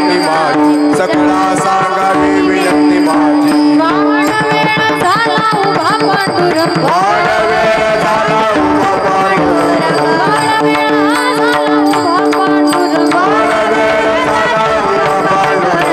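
Marathi devotional kirtan music: a voice singing an ornamented melody over long held accompanying notes and tabla.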